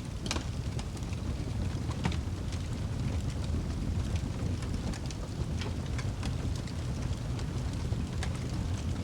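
Fireplace fire crackling: a steady low rush of flames with scattered sharp pops and snaps, one louder snap near the start and another about two seconds in.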